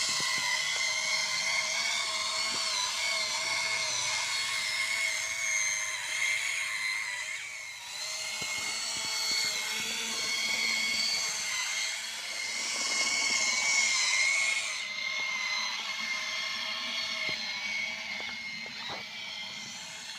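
Small electric motors and gears of a remote-control toy tracked excavator whining steadily as it drives, the pitch wavering slightly, with light clicks in the second half.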